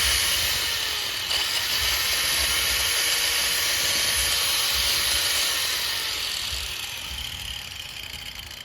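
Polymak 800S 800 W angle grinder running with no load, a steady high whine. About five and a half seconds in it is switched off, and the pitch and level fall as the disc spins down.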